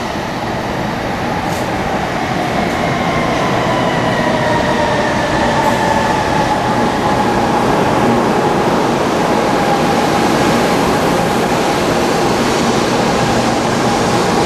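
Taiwan High Speed Rail train running, a loud rushing noise with a high whine that slowly falls in pitch; the sound cuts off abruptly at the end.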